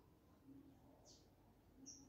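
Near silence, with one faint high bird chirp falling in pitch about a second in, and more chirps starting at the very end.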